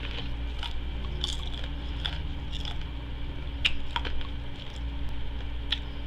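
Close-miked chewing: scattered wet mouth clicks and smacks, about seven in all, over a steady low hum.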